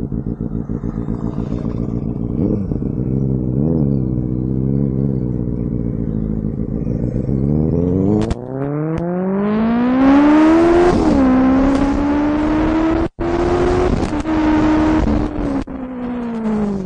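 Benelli 600i's inline-four engine running at low revs with a few small throttle blips, then accelerating hard with the revs climbing steeply. It shifts up once, holds high revs, and eases off near the end.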